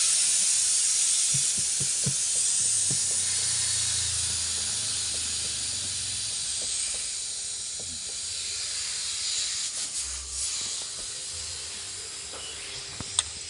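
Compressed-air blow gun hissing steadily as it blows water out of the spark plug wells of a BMW M50/M52 straight-six. Water in the plug wells is what makes the engine misfire. The hiss slowly fades, and there is a sharp click near the end.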